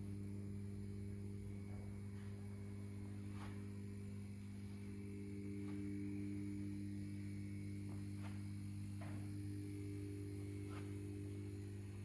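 Restored 1969 Porsche 911E air-cooled flat-six running at a steady speed on a test bench, coupled to its gearbox: an even, unchanging hum with a few faint ticks.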